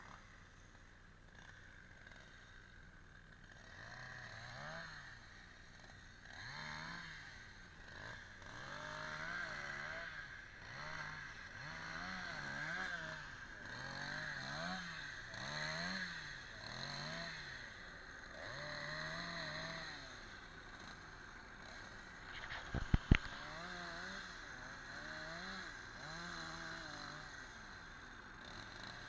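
A chainsaw revving up and down in quick pulses about once a second, as when cutting or limbing. Two sharp knocks come near the end.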